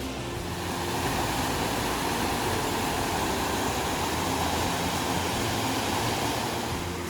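Waterfall pouring close by: a steady rushing noise of falling water that grows louder about a second in and then holds.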